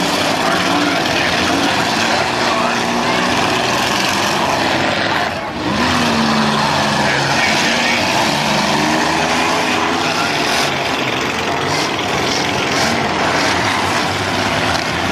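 Several demolition derby cars' engines running and revving together in a loud, steady din, their pitch rising and falling.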